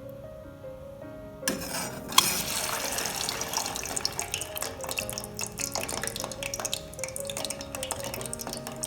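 Quail eggs frying in hot oil: a sudden burst of sizzling about a second and a half in, with a sharp clack soon after, then steady crackling and spattering over light background music.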